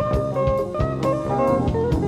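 Live jazz band from a cassette tape recording: electric guitar playing a melody over bass and a steady drum-kit beat.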